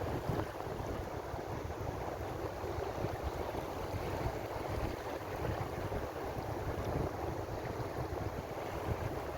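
Ocean surf: a steady rushing wash of waves, with a low rumble of wind buffeting the microphone.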